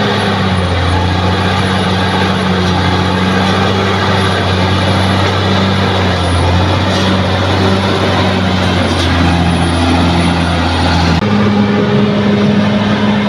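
Bulldozer's diesel engine running steadily with a low drone and a faint, wavering high whine above it. The sound changes abruptly about eleven seconds in.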